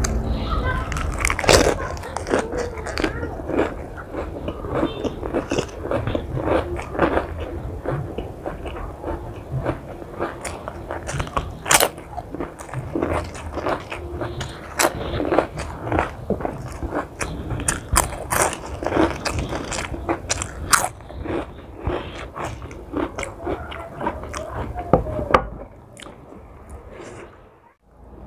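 Close-miked chewing of crunchy food, with many sharp, crisp crunches, dying away near the end.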